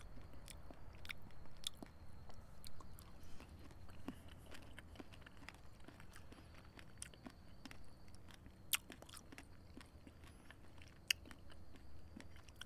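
A person chewing a mouthful of ripe fig: soft, irregular wet mouth clicks and smacks.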